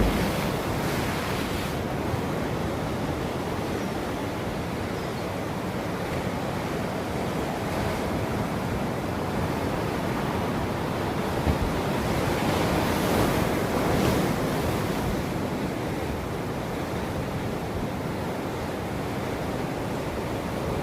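Ocean waves breaking and washing up on a shore, a steady surf with one larger wave swelling in about halfway through, with some wind noise on the microphone.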